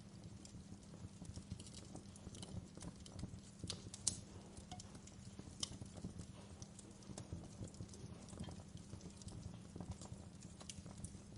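Wood fire burning in a fireplace, crackling with irregular small pops over a low, steady rumble of the flames, one sharper pop about four seconds in.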